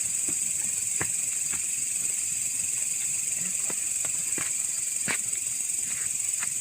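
Steady high-pitched chorus of night insects, crickets, with a few sharp crackles from the bonfire scattered through it.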